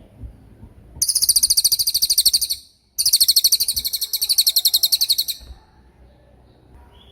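Cililin bird singing its 'tembakan' song: two loud, very rapid high-pitched trills of evenly repeated notes. The first starts about a second in and lasts nearly two seconds; the second follows a brief pause and lasts about two and a half seconds.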